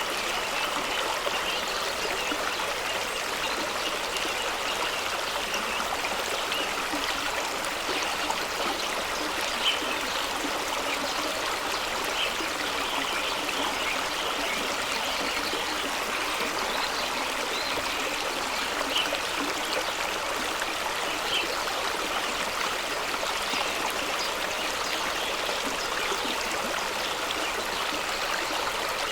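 A fast-running stream rushing and splashing over rocks, a steady, even rush with small splashes and gurgles scattered through it.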